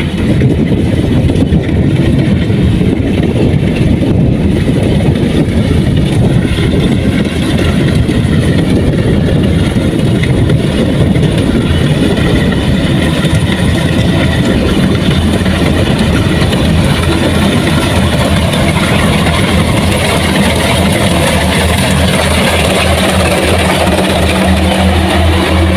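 Diesel engine of heavy farm machinery running continuously, settling into a clearer, steady hum in the last few seconds.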